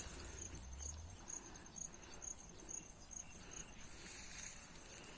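A cricket-type insect chirping steadily at a high pitch, about three chirps a second.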